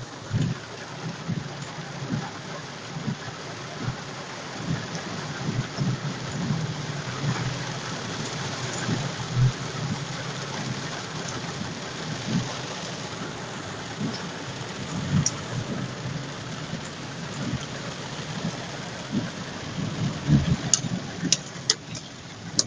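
Heavy downpour: a steady hiss of rain with many irregular low thuds, and a few sharp clicks near the end.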